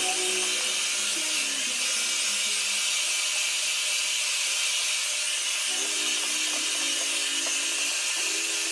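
Red Pro hand-held hair dryer blowing steadily: an even hiss of rushing air and motor.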